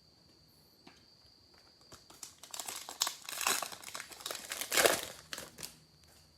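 Foil wrapper of a trading card pack crinkling as it is torn open, a run of irregular crackles for about three and a half seconds after a short quiet start.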